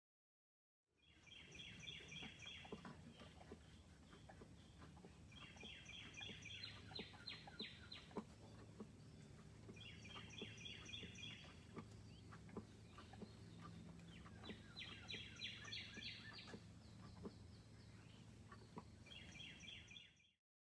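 A songbird singing the same short phrase of rapid high notes about every four seconds, five times, over a steady low hum and faint rustles and clicks.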